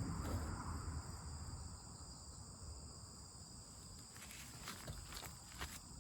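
Insects calling steadily in two high, unbroken tones, with a low rumble fading out in the first second and a handful of sharp clicks from about four seconds in.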